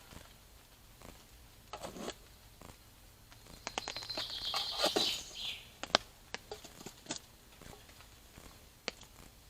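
Hands handling small gear: a rustle, a longer scraping rustle from about four to five and a half seconds in, and scattered light clicks and knocks.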